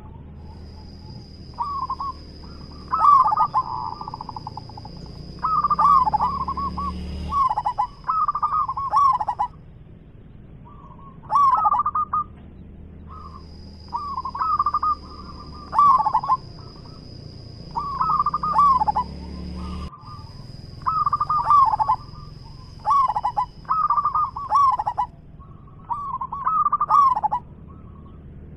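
Zebra dove (perkutut) singing loudly: a steady run of short rolling cooing phrases, one every second or two. A thin high steady tone comes and goes behind the song.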